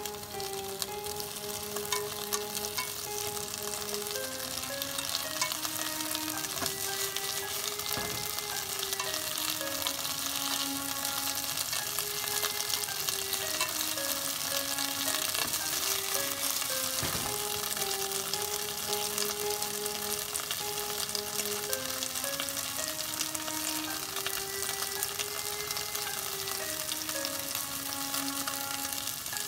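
Komatsuna stalks sizzling steadily in salad oil in a frying pan while they are turned with chopsticks. A soft background music melody plays along.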